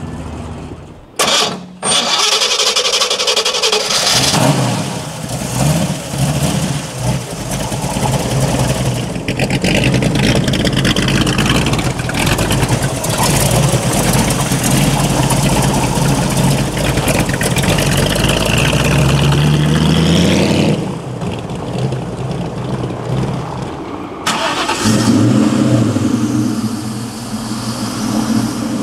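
A muscle car's V8 engine starting up, then running with repeated throttle blips as the revs rise and fall. There is a long climb in revs about two-thirds through before it drops back to a lower level, then it picks up again near the end.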